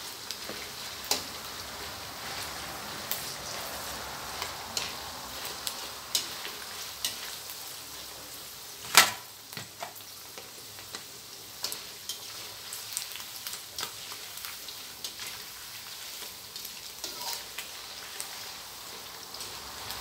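Sweet dried fish frying in oil in a steel wok over a low flame: a steady sizzle, with scattered scrapes and taps of a metal spatula stirring it against the wok. One much louder knock comes about nine seconds in.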